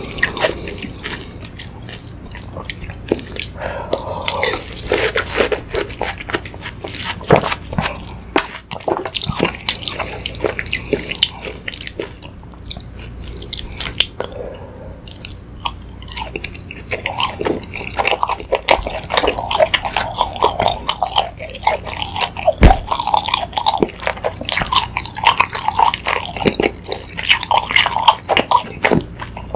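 Chewing and biting of sausage, chewy rice cake and watermelon fruit punch, with many short wet clicks and smacks. Near the start a wooden spoon scoops through the liquid punch.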